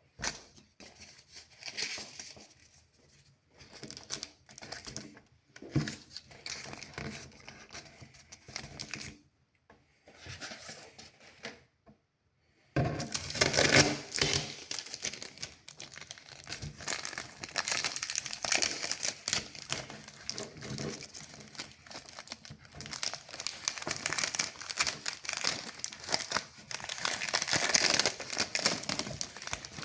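A sheet of paper being handled, folded and creased, crinkling and rustling. It is sparse and broken at first, then continuous from about halfway.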